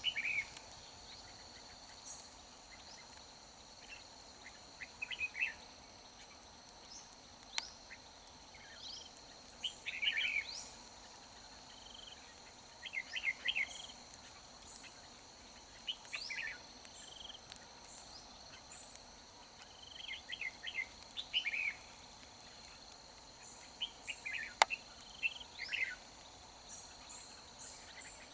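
Red-whiskered bulbul singing short, warbled phrases every few seconds, over a steady high buzz of insects. There are two sharp clicks, about a third of the way in and near the end.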